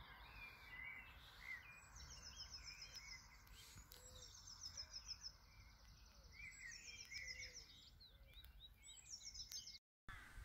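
Faint songbirds singing: a fast, high trill repeated every couple of seconds, with scattered lower chirps between, over a faint low rumble. The sound breaks off briefly near the end.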